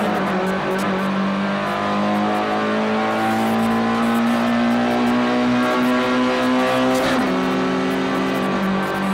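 Race car engine heard from inside the cabin, pulling hard with the revs climbing steadily in one gear for about seven seconds, then dropping sharply at an upshift and pulling on in the next gear.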